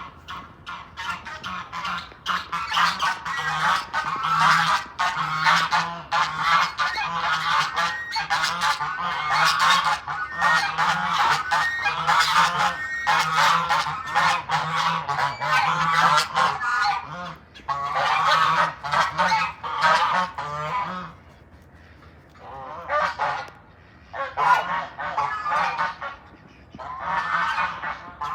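A flock of domestic waterfowl calling loudly, with many overlapping honking calls. The calling is almost continuous at first, then thins into separate bursts with short pauses in the last several seconds.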